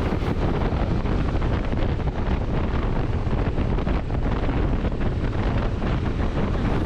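Steady wind rush on the camera microphone of a motorcycle riding at speed, heaviest in the low end.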